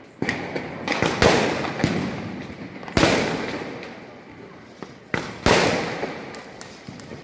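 Firecrackers going off: four loud bangs a second or two apart, each dying away slowly, with smaller cracks and pops between them.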